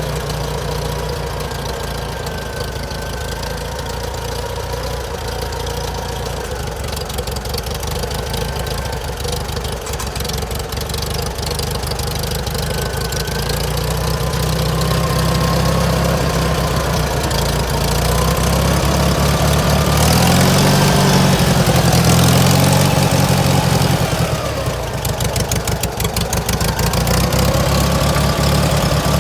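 Farmall 140 tractor's four-cylinder gasoline engine running, idling steadily at first. From about halfway through it speeds up and gets louder, then drops back sharply and settles at a slightly faster idle near the end.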